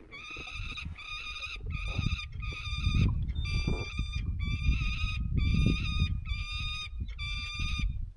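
A bird calling over and over: about ten evenly spaced calls of roughly half a second each, steady in pitch, from birds at a nest that are taken to be hungry. A low rumble runs underneath.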